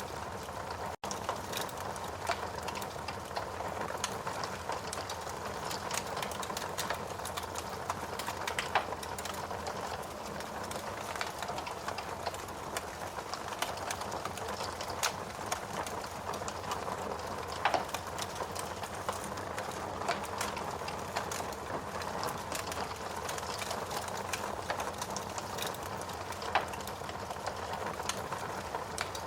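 Wood fire burning in a fireplace: a steady hiss with constant small crackles and a few louder pops.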